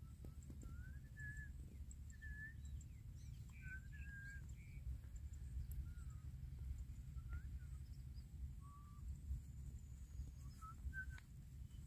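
Scattered short whistled bird calls, some slurred up or down, over a steady low rumble.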